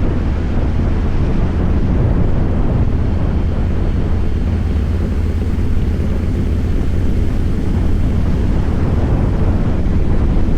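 Harley-Davidson Fat Boy's air-cooled V-twin engine running steadily with a deep, even rumble while the motorcycle rides along.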